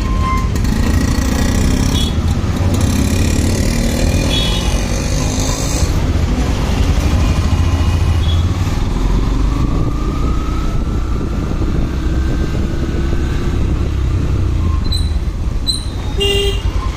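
Motorcycle on the move in road traffic: steady engine and wind rumble, with a few short high beeps near the end.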